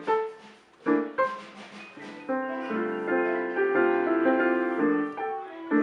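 Piano being played live: a few separate struck notes that ring and fade, then from about two seconds in a fuller passage of chords with several notes sounding together, which tails off near the end.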